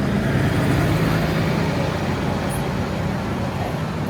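Steady road traffic noise with a low engine hum from passing vehicles.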